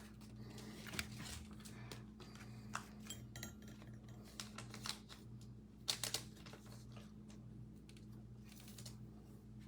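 Faint scattered light clicks and taps of trading cards being handled and sorted on a table, over a steady low hum.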